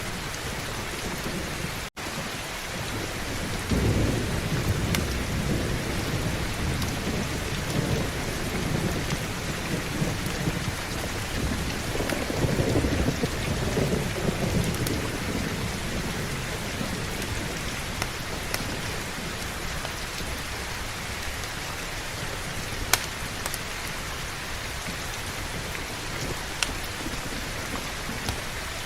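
Heavy rain falling steadily, with a long rolling rumble of thunder that swells from about four seconds in and fades out by about fifteen seconds. The sound cuts out for an instant about two seconds in, and a few sharp clicks stand out over the rain later on.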